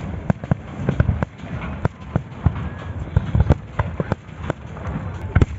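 Fireworks display: a rapid, irregular string of sharp bangs and pops, several a second, over a low rumble.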